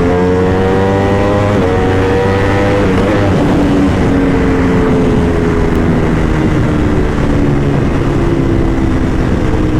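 Motorcycle engine pulling hard with its pitch rising, shifting up twice in the first three seconds, then its note falling slowly as the revs drop. Steady wind rush runs under it.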